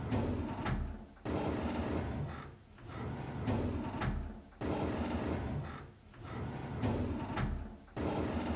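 A wooden drawer sliding open, repeated over and over about every three and a third seconds, with each pull starting abruptly.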